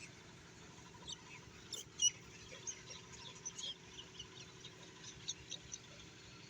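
Small birds chirping: many short, high chirps, scattered and irregular, over a faint steady low hum.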